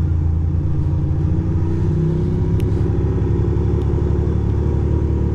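2006 Ducati Monster 620's air-cooled L-twin engine running while riding, its pitch climbing a little about two seconds in as the bike picks up speed.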